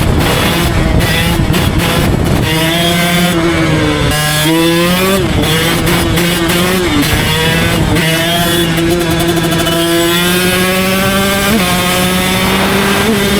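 Husqvarna two-stroke dirt bike engine being ridden. Its pitch climbs steadily under throttle and drops suddenly several times as the rider shifts gears or rolls off.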